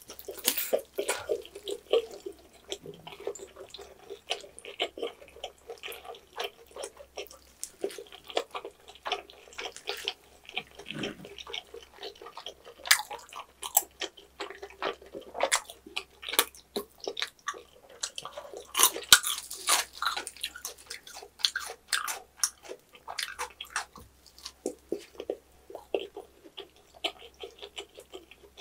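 Close-miked chewing of roast pork knuckle (Schweinshaxe): irregular wet smacking and mouth clicks as the meat and chewy skin are chewed.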